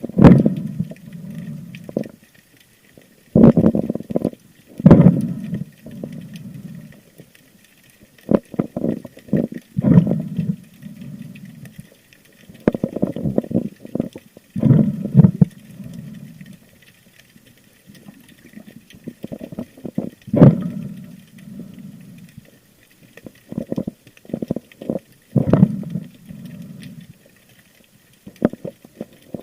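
Muffled gurgling and sloshing of water picked up by a camera in an underwater housing, in loud bursts every few seconds.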